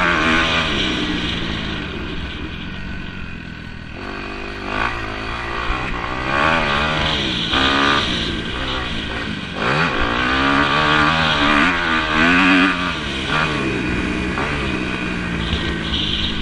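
Several motocross bikes racing, engines revving up and down repeatedly with overlapping pitches from more than one bike.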